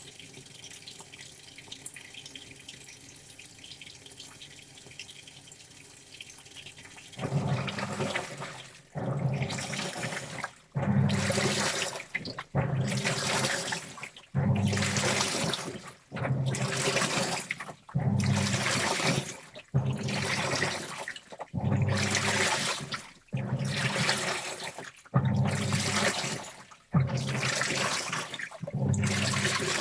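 Washing machine washing a load: faint water trickling into the drum at first, then, about seven seconds in, the drum starts turning and water and clothes slosh in regular surges, one roughly every two seconds.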